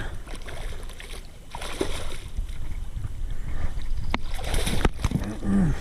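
Water splashing in short bursts and sharp knocks on a kayak as a hooked bass is fought and landed, over a low rumble on the microphone.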